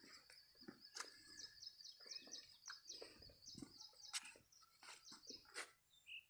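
Faint high bird chirps repeating over near silence, with scattered soft clicks and rustles.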